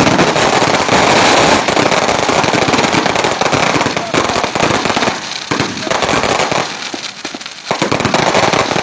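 A string of firecrackers going off in rapid, dense pops, thinning into sparser bursts with short gaps after about four seconds.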